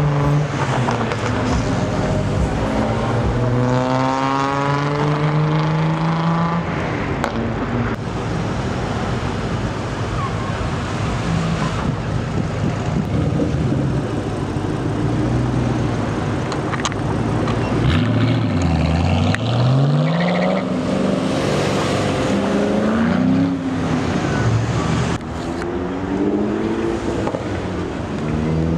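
Car engines pulling away one after another, each acceleration a climbing pitch, the clearest about three seconds in, just before twenty seconds after a brief dip, and near the end. Underneath runs a steady drone of other engines.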